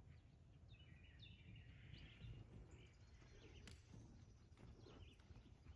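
Near silence: faint outdoor room tone with scattered faint bird chirps and a single faint click.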